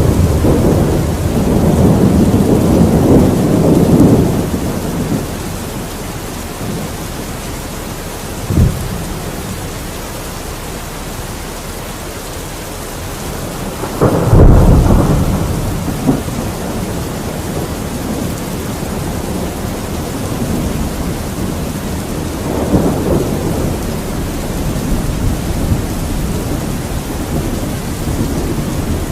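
Thunderstorm: steady rain hiss with repeated rolls of thunder, a rumble in the first few seconds, a short sharp crack about eight seconds in, a loud clap with rolling rumble about fourteen seconds in, and a softer rumble near the end.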